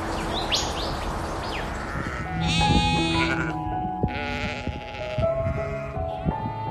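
An animal giving three wavering, bleat-like calls, the first about two and a half seconds in, over background music; before them a noisy ambience with a few short chirps.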